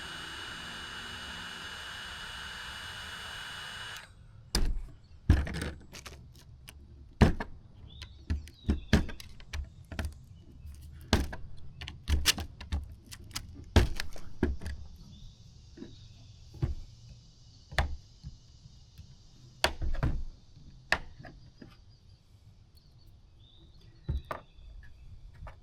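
A heat gun blows steadily with a thin whine, then switches off about four seconds in. It is followed by a long run of sharp clicks, taps and knocks from small tools and hard plastic as a small screw is picked free of melted plastic.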